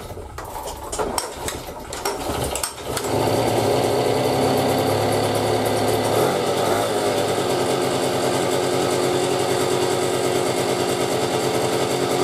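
Piaggio Boxer moped's small two-stroke single-cylinder engine starting: a few clicks and knocks, then it catches about three seconds in and runs steadily, settling a little lower in pitch soon after. It runs without the earlier rattle and ringing now that a new piston and cylinder are fitted.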